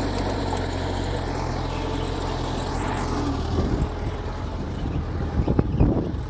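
Mitsubishi G2 bulldozer's diesel engine running steadily. About halfway through, irregular clanking and knocking join in and grow louder near the end.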